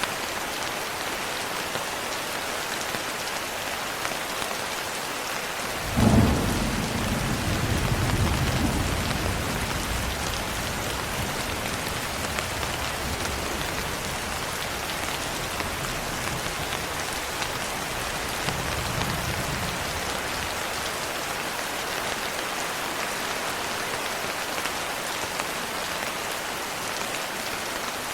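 Steady rain falling, an even hiss. About six seconds in, a thunderclap breaks sharply and rolls off as a low rumble over several seconds, with a fainter rumble of thunder a little later.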